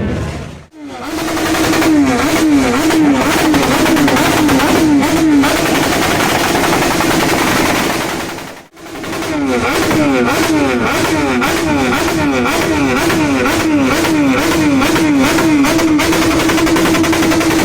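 Motorcycles running, with many sharp exhaust crackles, under a pitched tone that rises and falls about twice a second and holds steady near the end.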